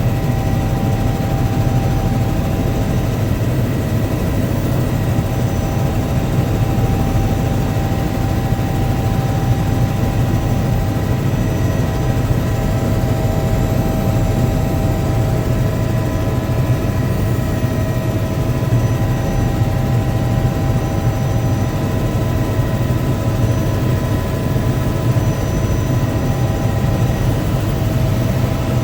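Helicopter heard from inside the cabin in flight: a steady, loud drone of rotor and engine with several steady whining tones over it.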